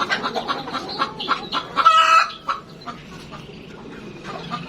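Domestic hens clucking in a rapid run of short clucks, with one louder drawn-out squawk about two seconds in, then only scattered quieter clucks.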